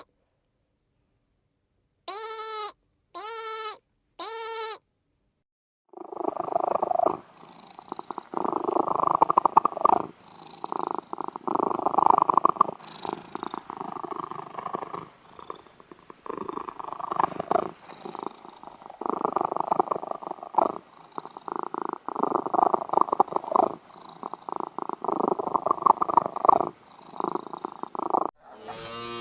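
Three short bleats in the first few seconds, then a domestic cat purring continuously, swelling and easing every second or two.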